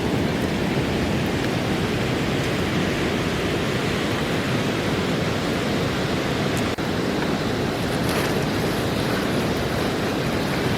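Steady rushing of river water flowing, an even noise with no rhythm.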